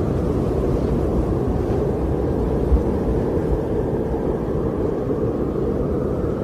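Winter wind blowing steadily: a low, even rush with deep rumbles swelling now and then.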